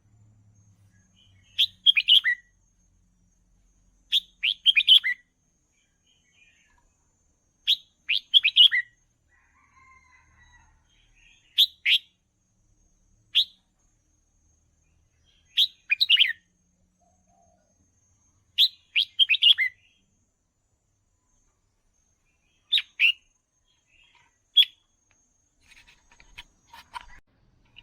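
Red-whiskered bulbul singing short, bright chirping phrases, repeated about every two to four seconds with pauses between.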